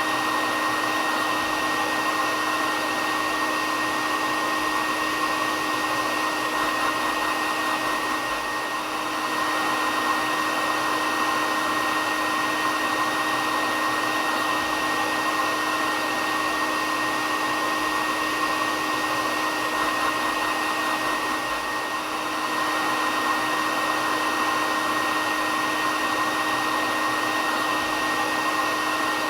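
Hair dryer running steadily: a constant rush of blown air with a steady motor whine, briefly a little softer twice.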